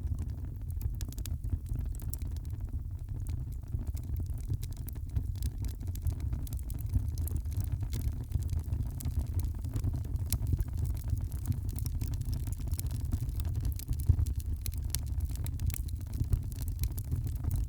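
Wood fire crackling, with frequent small pops and snaps over a steady low rumble; one louder pop about fourteen seconds in.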